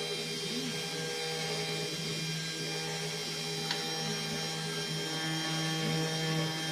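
3018 desktop CNC router carving wood: the spindle motor runs at a steady whine with the stepper motors driving the cutter, and there is one faint tick about three and a half seconds in.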